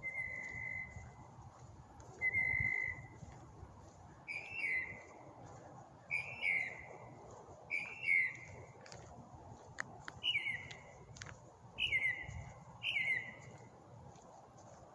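Northern mockingbird singing at night: loud slurred whistled phrases, each repeated two or three times before it switches to a new phrase.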